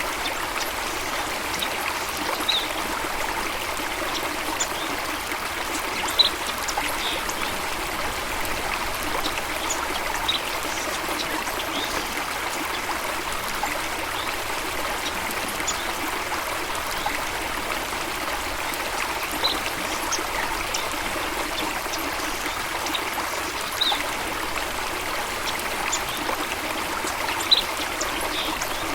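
Running water trickling and splashing steadily, like a small stream, with short high-pitched notes or plinks every few seconds.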